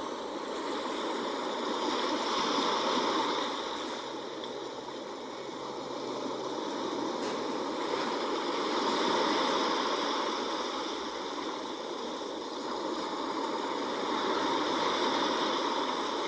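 Sea waves washing on the shore in slow surges, swelling and easing about every six seconds.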